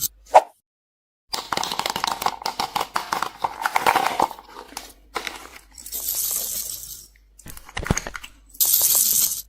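Slime and small objects being handled and mixed: a dense run of crackles and pops lasting a few seconds, then two bursts of high hiss with sharp clicks between them.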